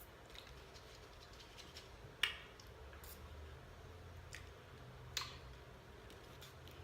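Quiet eating sounds: a scatter of small sharp clicks and mouth smacks, with two louder clicks about two and five seconds in.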